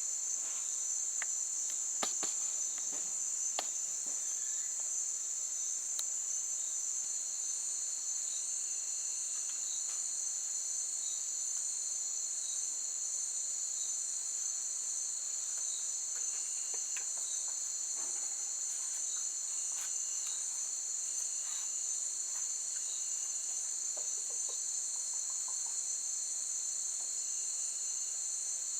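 Steady chorus of insects such as crickets, a continuous high-pitched shrill drone, with a few faint clicks in the first few seconds and scattered faint short chirps.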